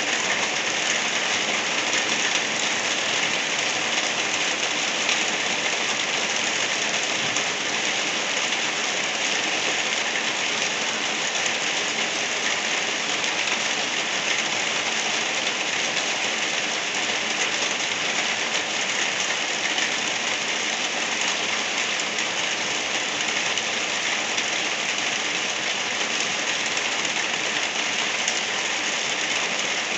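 Steady, gentle rain falling, an even hiss with no individual drops standing out.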